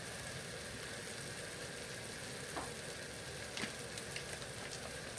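Onions, tomatoes and spices frying in butter in a pan, a steady sizzle with a few small pops in the second half.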